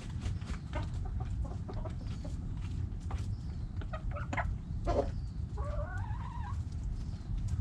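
Backyard hens clucking in short scattered notes, with one longer wavering call about six seconds in, over a steady low rumble.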